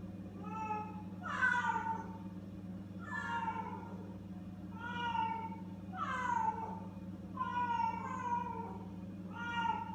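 Frightened feral kittens meowing over and over, about seven calls, each brief and falling in pitch, a second or two apart. A steady low hum runs underneath.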